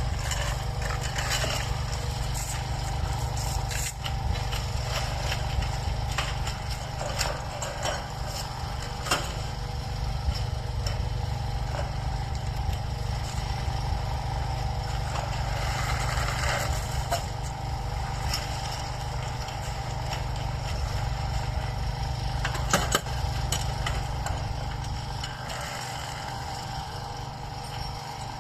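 Railway track maintenance machinery running: a steady engine drone with a held whine above it, and a few sharp knocks, the strongest about 23 seconds in.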